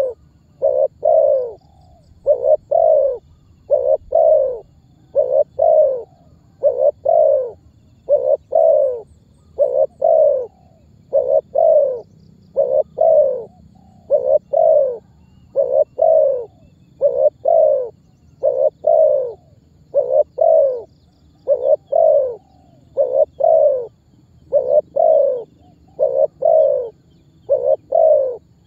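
Spotted dove cooing over and over, loud repeated coo notes in short groups of two or three that keep an even rhythm.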